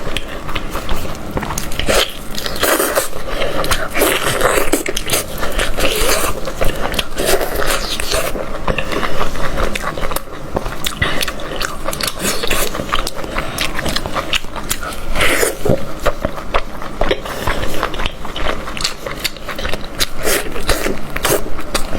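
Close-up biting and chewing of goat head meat, with many short clicks and smacks in quick succession.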